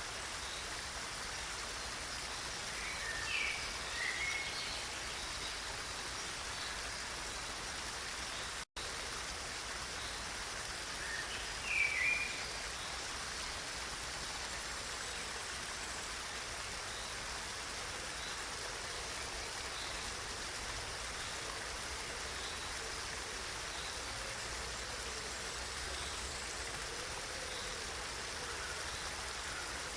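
Steady rush of running water, like a stream, with a few short bird chirps about three seconds in and again near twelve seconds. The sound cuts out for an instant about nine seconds in.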